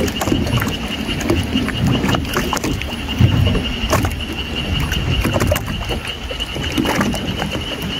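Water lapping and sloshing against a boat's hull, with many small sharp splashes and ticks at the surface and a steady high-pitched whine.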